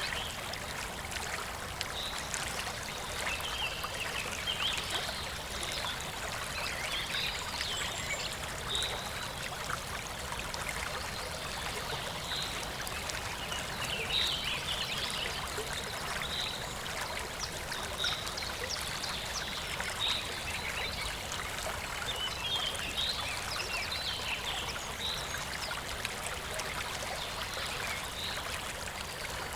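Shallow stream of clear water flowing and babbling steadily, with small irregular splashy gurgles throughout.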